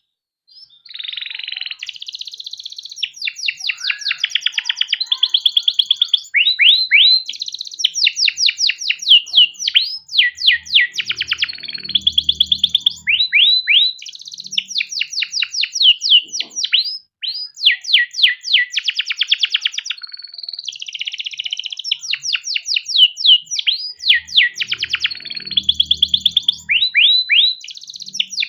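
Canary singing a long, unbroken song of fast trills and rolls, rapid runs of repeated notes mixed with quick rising whistled sweeps, starting about a second in.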